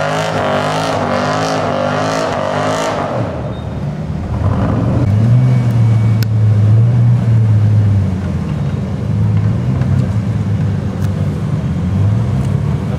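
Extreme off-road 4x4's engine revving hard in quick surges while climbing a slope. From about four seconds in it drops to a lower, steadier drone, loudest a few seconds later.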